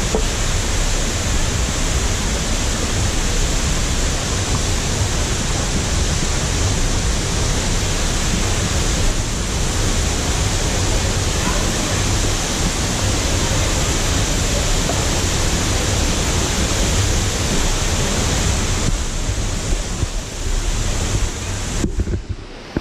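Steady, loud rushing of a large waterfall, the Sgwd yr Eira falls that the trail passes behind, with no pitch to it. It dips near the end and cuts off.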